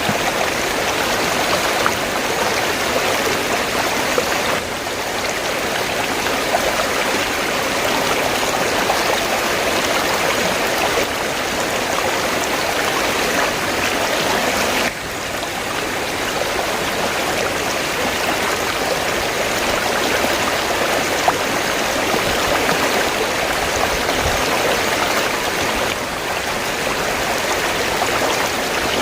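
River water flowing, a steady rushing with no letup; the level dips slightly about fifteen seconds in.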